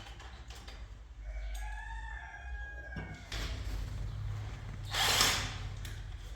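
A rooster crowing once, one call that rises and falls. A few seconds later comes a short burst of a power drill driving a screw.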